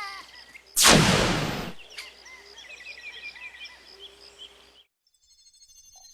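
Cartoon sound effects: a sudden loud blast about a second in that fades away within a second, then light bird-like chirping that cuts off abruptly.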